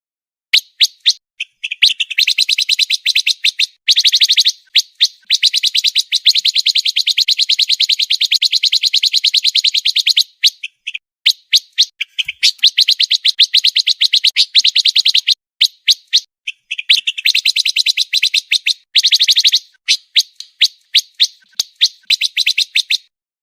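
Songbird called pancawarna singing a very fast, tightly packed trill of high notes in long runs of several seconds, broken by short pauses and scattered single chips.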